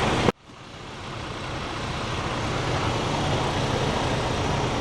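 Steady truck cab noise with a low engine hum. About a third of a second in it cuts out abruptly, as at an edit, then fades back up to a steady level over a couple of seconds.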